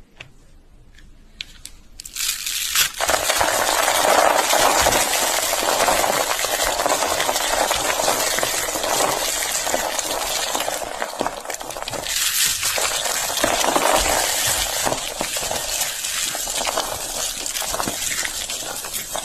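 Slate pencils being crunched: a few faint clicks, then from about two seconds in a loud, continuous gritty crackling made of many tiny cracks.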